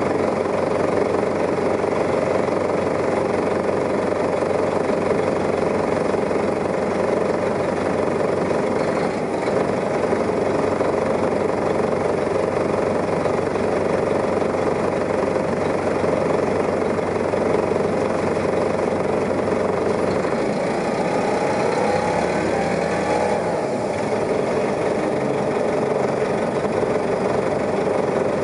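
New Flyer articulated city bus engine running steadily while the bus is under way, with a rising whine about two-thirds of the way through.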